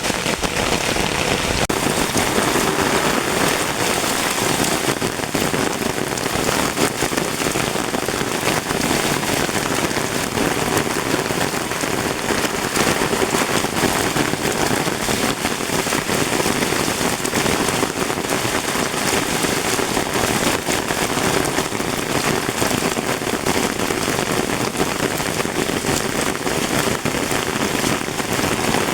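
Heavy rain pattering steadily on an umbrella, a dense, even rush of drops close to the microphone.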